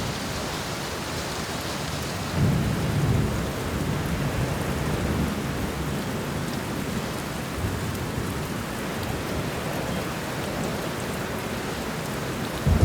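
Steady heavy rain falling, with low rumbles of thunder swelling in and out, the strongest about two and a half seconds in.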